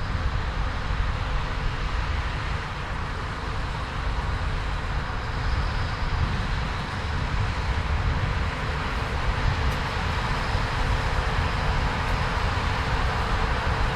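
Heavy farm machinery running steadily: a low engine drone with a continuous mechanical whir and hiss.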